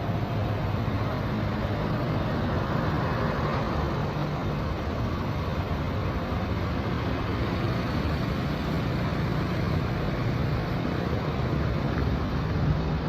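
Road traffic noise: a steady low rumble of vehicle engines and tyres on the street.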